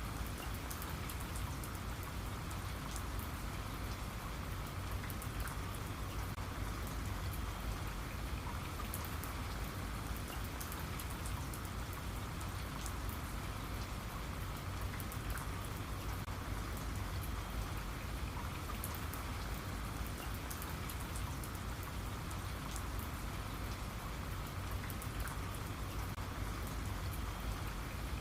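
Steady rain falling on a surface, a dense even hiss with many small drop impacts.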